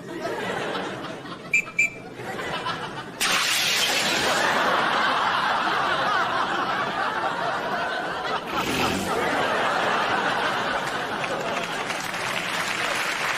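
Studio audience laughing, starting moderately and swelling suddenly into loud sustained laughter about three seconds in. A couple of short clicks sound in the first two seconds.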